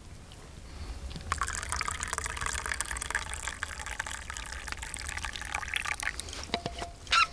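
Tea being poured into a cup, a steady splashing pour lasting about five seconds, followed by a few sharp knocks near the end.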